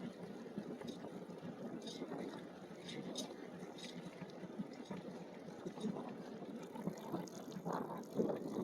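E-bike riding along an unpaved trail: a steady rumble of the tyres on the ground, with scattered small clicks and rattles.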